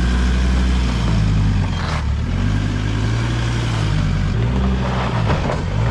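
Off-road four-wheel-drive's engine working hard under load, its revs rising and falling as it climbs, with a dip about two seconds in and another near the end as the throttle is eased.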